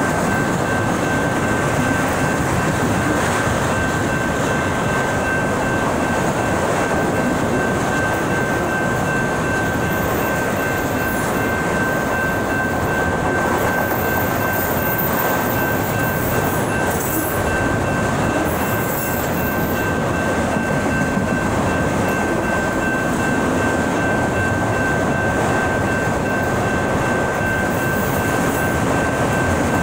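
Freight train of autorack cars rolling past at a steady pace, its wheels on the rails making an even rumble. A steady high tone sounds above the rumble.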